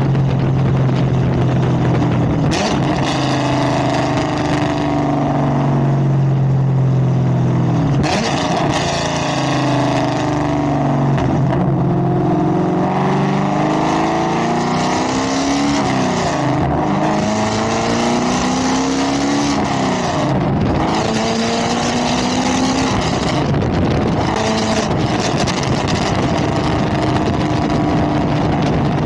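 2022 Camaro ZL1's supercharged 6.2-litre V8 running loud through 2-inch long-tube headers and a straight-piped exhaust, its pitch steady at first and then rising and falling as the engine speed changes.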